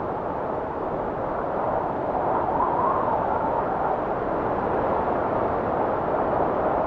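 Blizzard wind blowing steadily, with a faint whistle that wavers up and down in pitch and swells a little about two seconds in.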